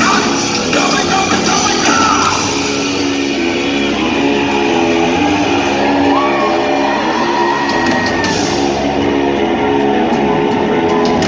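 Loud live rock music: an instrumental passage led by electric guitar, with bass and drums, heard through the hall.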